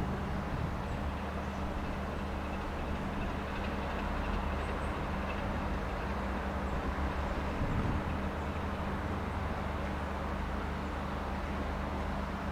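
Class 33 diesel-electric locomotive's Sulzer eight-cylinder engine running steadily at a low, even note.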